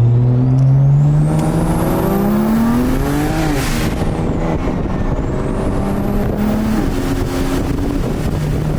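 Turbocharged BMW inline-six accelerating hard at full throttle, its note climbing steadily, dropping sharply at an upshift about three and a half seconds in, then pulling again with another shift near seven seconds. A faint high whistle rises along with the revs.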